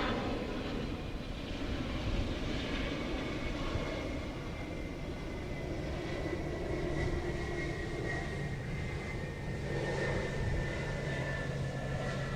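Airliner engines running as a plane passes, with a steady rush and a high whine that slowly falls in pitch.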